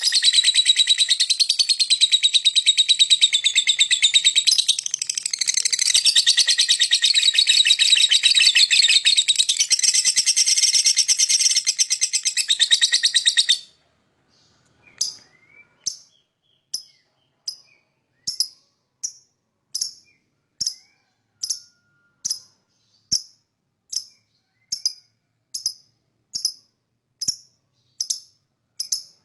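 Lovebird 'ngekek': a long, unbroken, rapid high-pitched chattering trill that goes on for about fourteen seconds and then cuts off suddenly. After a short pause it gives way to single short, sharp chirps, evenly spaced at a little under one a second.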